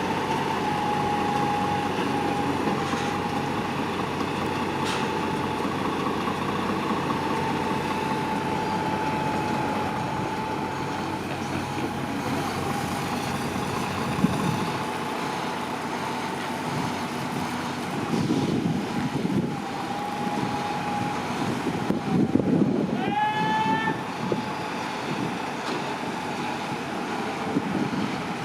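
Lorries running at a motorway services, engines rumbling and building as one pulls away, over a steady high whine. Near the end a short rising whine sounds as an engine revs.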